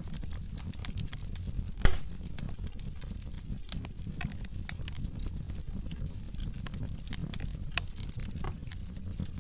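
Wood fire crackling: burning logs pop and snap over a steady low rumble of flame, with one loud pop about two seconds in.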